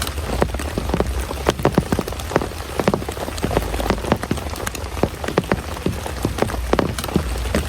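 Heavy rain, with large drops striking a surface close by in a dense, irregular patter over a steady hiss and a low rumble underneath.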